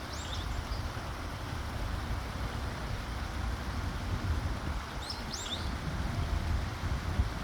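Small bird chirping in two short bursts, one at the very start and one about five seconds in, over a steady low outdoor rumble.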